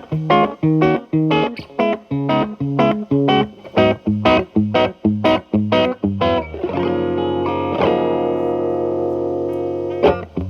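Telecaster through an MI Audio Crunch Box distortion pedal into a Marshall Valvestate amp's clean channel, with the drive cleaned up to a light crunch. Quickly picked single notes, about three or four a second, give way about two-thirds of the way in to a chord left ringing for a few seconds, then the picking starts again near the end.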